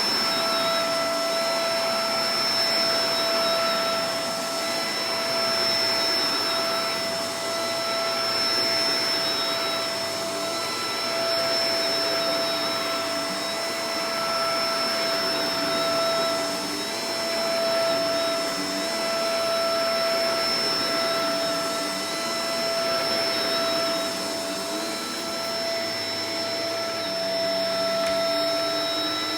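Shark Professional Powered Lift-Away DLX (NV586) vacuum cleaner running: a steady motor whine over the rush of air. The loudness swells and dips every couple of seconds.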